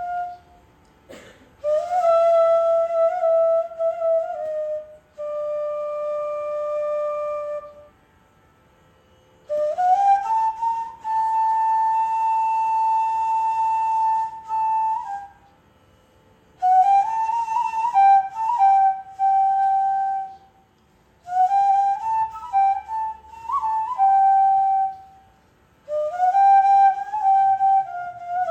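Solo flute playing a slow melodic passage in Carnatic style: phrases that slide into and ornament their notes, with one long held note partway through, separated by short pauses and with no drums.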